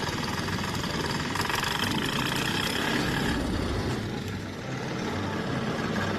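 An engine running steadily, with the high part of the noise easing a little about halfway through.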